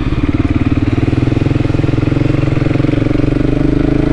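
Voge 300 Rally's single-cylinder engine running at low, steady revs while riding slowly, the pitch starting to rise slightly near the end.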